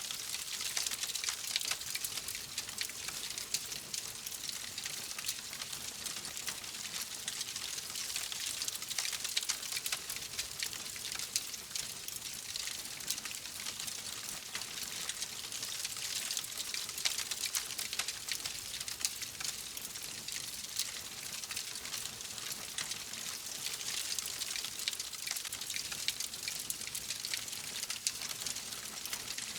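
Wood fire crackling steadily, a dense stream of small pops and snaps over a soft hiss.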